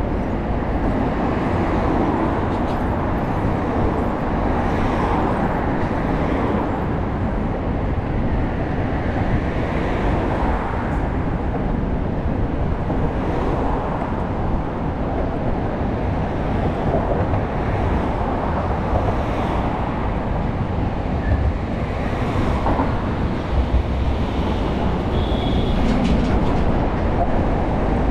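Steady wind rush and city traffic noise heard from a moving bicycle, with a short high-pitched squeal near the end.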